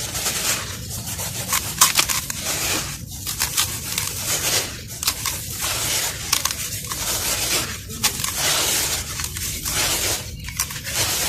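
Molded pieces of crumbly chalk- or clay-like material being crushed and crumbled, a dense gritty crackle of many small breaks coming in several bouts with brief pauses between them.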